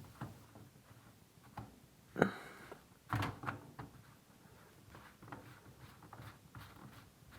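Sink siphon being fitted back onto the drain: scattered clicks and knocks of the parts being handled and pushed together, the loudest about two seconds in and a quick run of them just after three seconds.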